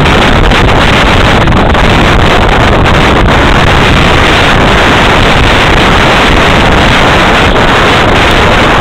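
Strong mountain wind buffeting the camera's microphone: a loud, steady rush of noise that keeps the recording close to full level.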